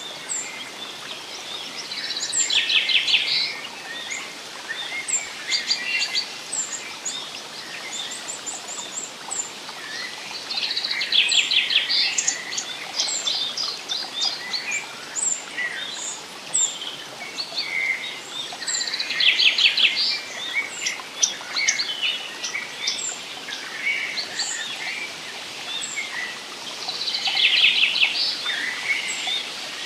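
Forest songbirds singing: one bird repeats a rapid trilled song phrase about every eight seconds, with short high chirps from other birds in between, over a steady soft background hiss.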